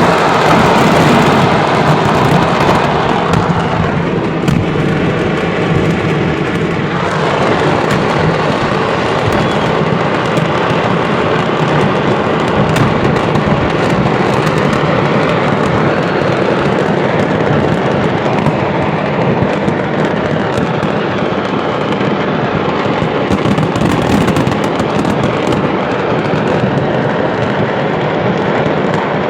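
Stored fireworks at a pyrotechnics market going off in a dense, unbroken barrage of crackling bangs and pops. A steady pitched tone sounds over it for a few seconds, about four seconds in.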